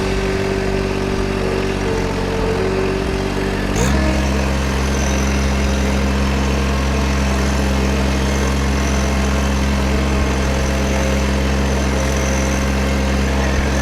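An engine idling steadily, its note shifting once about four seconds in and then holding even.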